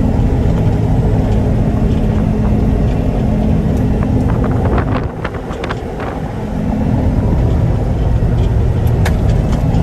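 Tractor engine running steadily, with a few light clicks and rattles over it and a brief dip in loudness midway.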